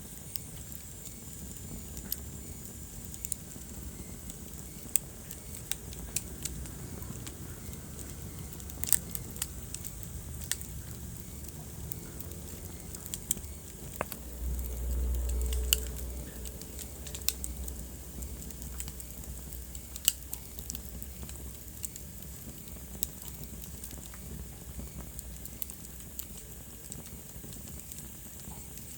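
Wood fire crackling: irregular sharp pops and snaps over a low, steady rumble of burning. About halfway through, a low rumble swells for a second or two.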